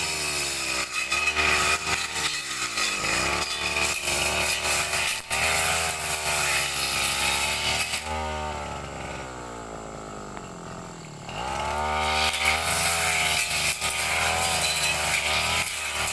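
Brush cutter's small petrol engine running under load, its pitch swinging up and down as the throttle is worked. About eight seconds in it eases off and the pitch falls for a few seconds, then it revs back up.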